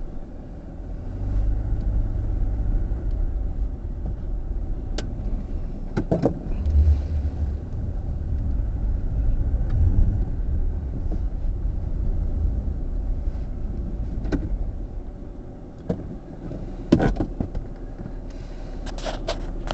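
A car's engine and road rumble heard from inside the cabin, a steady low drone that eases off after about fifteen seconds. A few sharp clicks or knocks sound over it.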